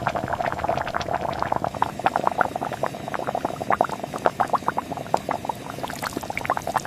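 A pot of liquid bubbling at a steady boil: a dense, irregular crackle of small bubble pops over a steady bubbling hiss.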